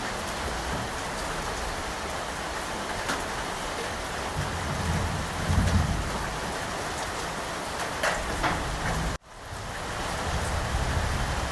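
Steady heavy rain falling, with low rumbles of thunder in the middle. About nine seconds in the sound cuts out abruptly and swells back in over a second.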